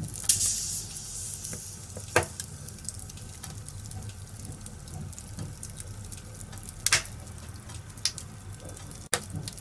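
Wood fire crackling in a fireplace: a steady hiss with scattered small snaps and two sharp pops, about two seconds in and about seven seconds in.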